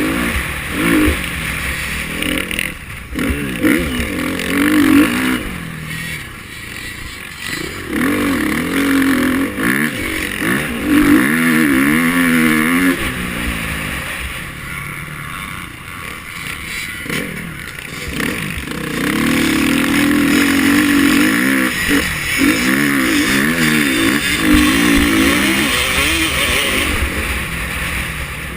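KTM 350 XC-F's single-cylinder four-stroke engine revving up and down over and over as it is ridden hard, the pitch climbing and falling again every second or two with short drops in between.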